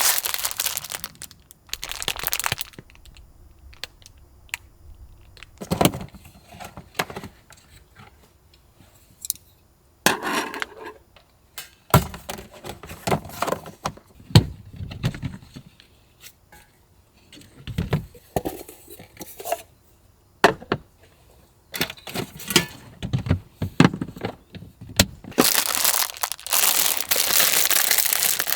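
Close handling noises: irregular crinkling and rustling of plastic or packaging with small knocks and clinks, becoming a continuous crinkling over the last few seconds.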